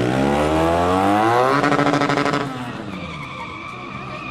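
Motorcycle engine revved hard, its pitch climbing steadily for about a second and a half and holding high. It then cuts off sharply about two and a half seconds in, leaving quieter background noise.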